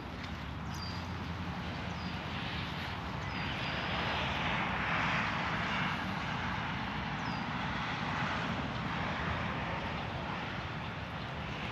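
Steady rushing of water and rain, with a whooshing swell that builds and fades over a few seconds in the middle. Several short high bird chirps sound over it.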